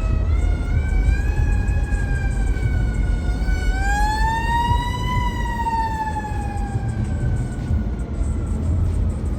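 An emergency vehicle siren wailing: one drawn-out tone that rises slowly, peaks about halfway through, then falls and fades, over a steady rumble of street traffic.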